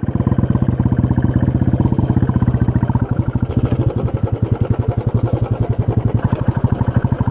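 Motorcycle engine running steadily, with a fast, even pulsing beat.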